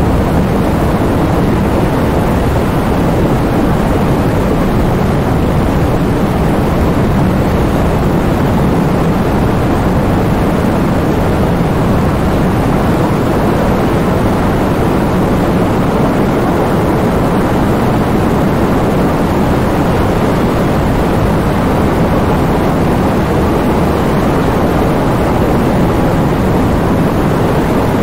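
Heavy rain in strong wind: a loud, steady wash of noise, heaviest in the low end, with no let-up.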